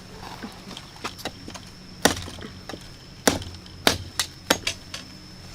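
A blade chopping into a wooden pole being cut for a fishing rod: about seven sharp, separate chops, starting about two seconds in and coming faster near the end.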